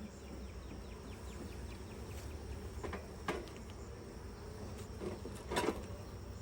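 Honeybees buzzing around an open hive, with a few short knocks, the loudest a little over five seconds in.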